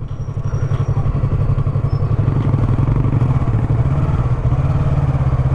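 Motorcycle engine running steadily under way, a rapid, even pulse that grows a little louder in the first second.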